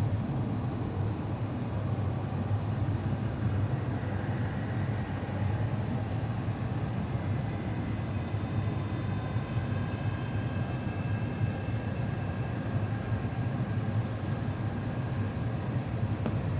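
Steady low cabin rumble inside an Airbus A350-900 with Rolls-Royce Trent XWB-84 engines, on its arrival. Faint high tones come in about four seconds in and fade out around twelve seconds.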